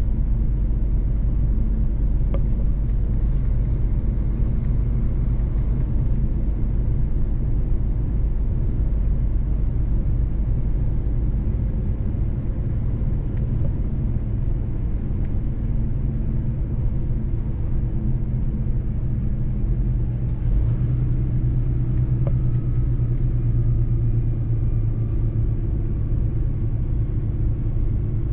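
Mercedes-Benz truck driving on the road: a steady low engine and road rumble, its engine note shifting slightly about two-thirds of the way through.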